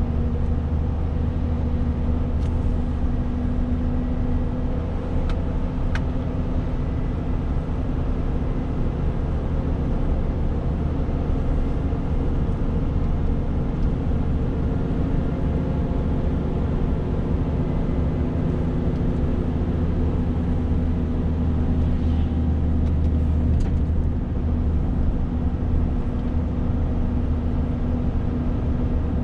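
Renault T520 truck's 13-litre straight-six diesel running steadily on the road, a constant low drone with a few faint clicks.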